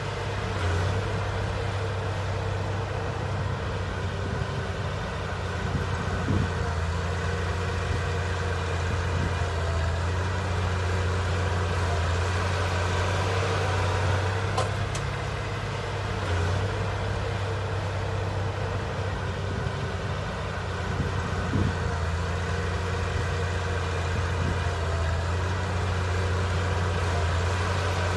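Heavy diesel engine of earthmoving machinery running steadily with a deep drone that swells and eases a little, with a few faint knocks.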